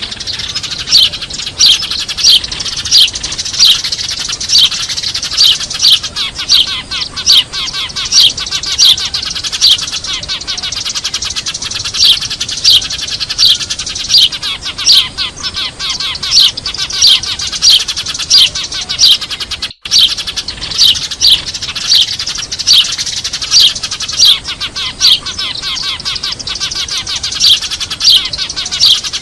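Eurasian tree sparrows chirping noisily in a busy flock chatter, with loud sharp chirps about twice a second over a dense bed of fainter chirps. The chatter drops out for an instant about twenty seconds in.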